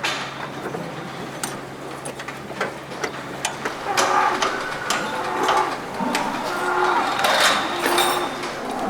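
Hand wrench working on a mini tractor's bolts: repeated short metallic clicks and clinks of tools on metal. From about four seconds in, held humming and grunting voices join as the children strain against the stuck bolt.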